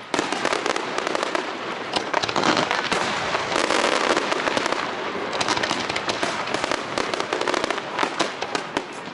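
Fireworks display: a dense, continuous barrage of rapid bangs and crackling that jumps up sharply right at the start.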